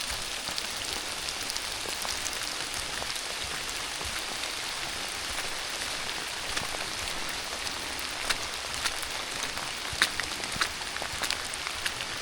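Steady rain falling in the woods: an even hiss with scattered sharper ticks, which come more often in the last few seconds.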